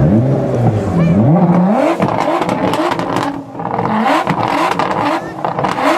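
Sports car engine revved in repeated blips, its pitch climbing and dropping, with one longer climb about a second in and shorter blips later. Sharp crackles from the exhaust come between the revs.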